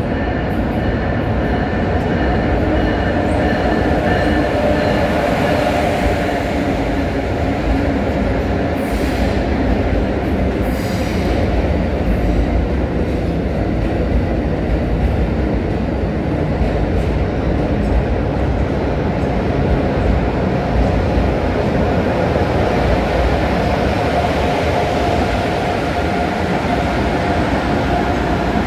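Amtrak Acela Express electric trainset rolling slowly into the platform and coming to a stop, a steady rumble of wheels on rail with a thin, faint squeal over it.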